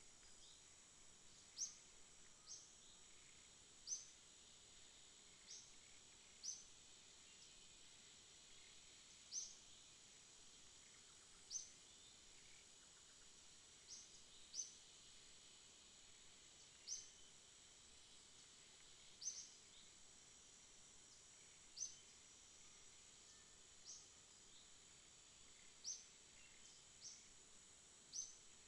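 Faint night-time insect chorus, a steady high-pitched drone, with short sharp high chirps repeating irregularly about every one to two seconds.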